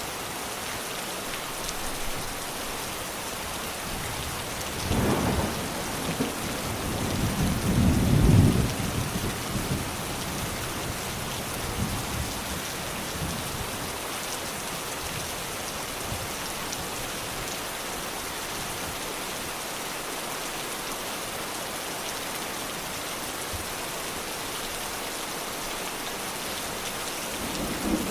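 Steady heavy rainfall hissing, with a roll of thunder rumbling in about five seconds in, swelling loudest around eight seconds and fading by ten; another rumble begins near the end.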